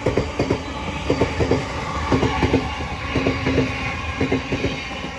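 Southeastern Class 707 electric multiple unit running through the station, its wheels clicking over the track in quick groups of two and three over a steady rumble.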